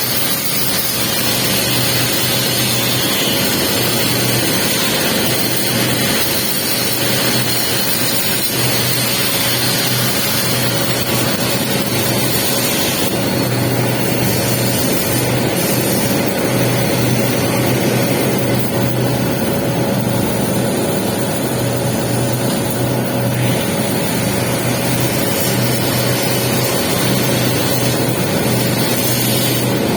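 Welding arc laying a capping pass on pipe: a steady, unbroken hiss and crackle with a low hum underneath.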